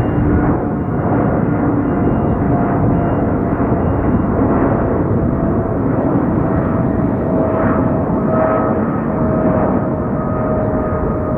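Boeing 777's twin jet engines running loud and steady, with a few whining tones that slowly drop in pitch.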